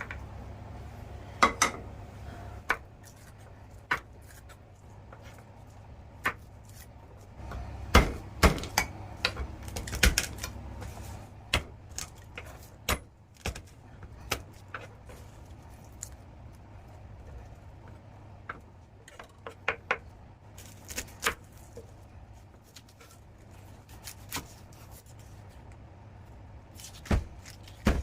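Irregular knocks and clinks of kitchen utensils, dishes and pans being handled during food preparation, some strokes close together, over a low hum.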